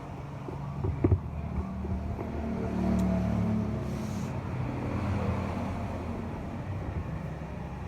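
A motor vehicle's engine running, swelling louder about three seconds in and then easing off, with a couple of sharp knocks about a second in.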